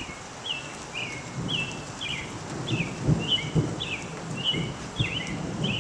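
A songbird calling repeatedly, a short note sliding down in pitch about twice a second, over a low, gusty rumble.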